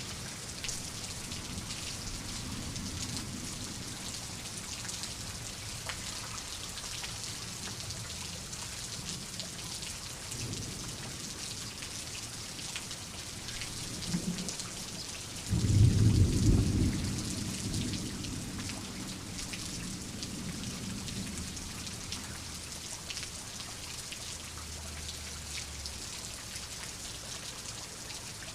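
Steady rain falling, with fine individual drop ticks, under a thunderstorm. Faint low thunder rumbles in the first few seconds, then about halfway through a loud close thunderclap that rolls and fades away over several seconds.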